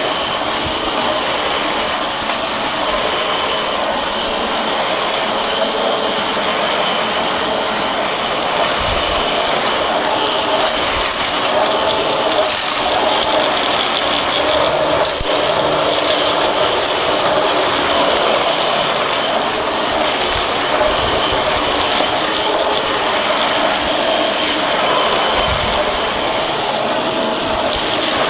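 Dyson vacuum cleaner running steadily with a constant motor whine over the rush of air, as it is worked over a dirty outdoor rug.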